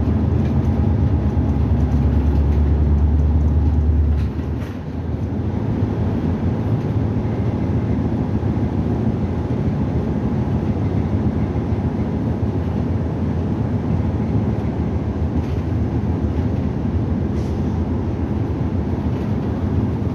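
Inside a city bus: the engine pulls with a strong low drone, which drops away about four seconds in, leaving steady engine and road noise as the bus rolls on.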